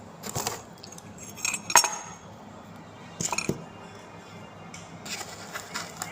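Tableware being handled: a few short clinks and rattles in separate bunches, the sharpest and loudest, with a brief ring, a little under two seconds in.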